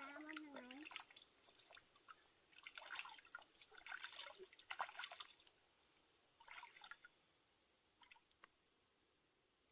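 Faint water trickling and splashing in a few short spells, after a brief pitched call in the first second.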